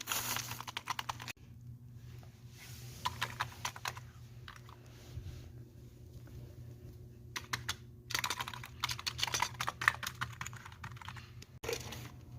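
Typing on a computer keyboard: quick runs of key clicks with pauses. The clicking is busy in the first second, sparse through the middle, and busy again from about eight seconds until shortly before the end.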